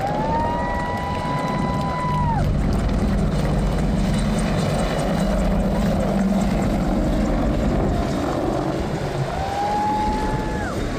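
Helicopter flyby: a steady rotor rumble with a high engine whine that rises, holds, then falls away as it passes. The whine comes twice, at the start and again near the end.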